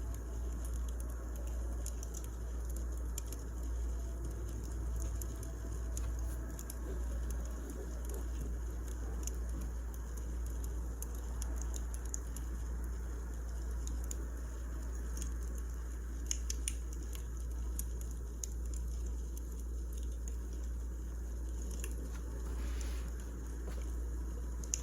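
Wood fire crackling: irregular small pops and snaps over a steady low rumble, with a few louder snaps about two-thirds of the way through.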